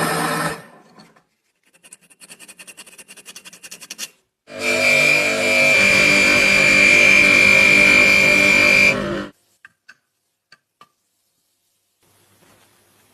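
Dynamo pocket light being worked by hand: a fast run of ratchet clicks, then its gear train and generator whirring steadily with a high whine for about five seconds before stopping abruptly. A few faint ticks follow.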